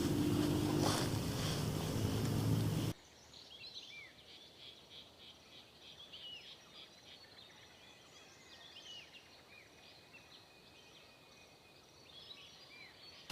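A loud rushing noise with a low hum cuts off abruptly about three seconds in, leaving faint chirping of small birds: many short calls, each rising or falling in pitch.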